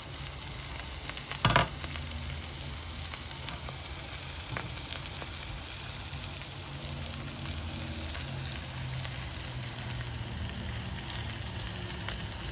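Giant prawns sizzling and frying in garlic butter in a pan, with a spatula stirring and turning them. A single sharp knock about a second and a half in.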